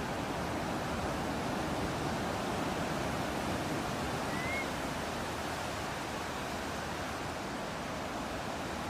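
Ocean waves and breeze making a steady rushing noise that slowly swells and eases. A single faint, short rising bird chirp comes about halfway through.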